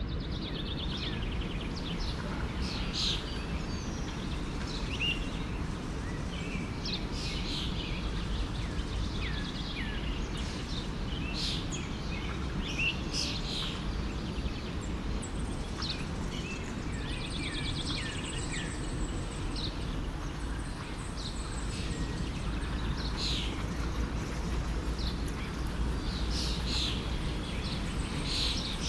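Many forest birds chirping and singing in short, scattered calls over the steady rush of a flowing stream.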